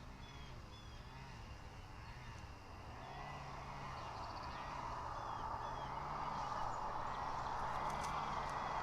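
A steady rushing noise that grows louder from about three seconds in, with faint bird chirps over it.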